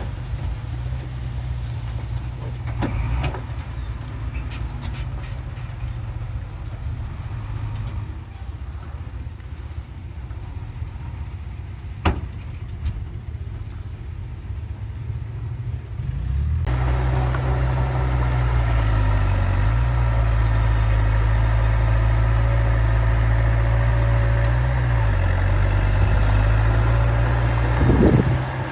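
Heavy diesel earthmoving machinery running, a steady low engine drone. A single sharp click about halfway through. Later the engine sound abruptly becomes louder and fuller, its pitch dipping briefly twice.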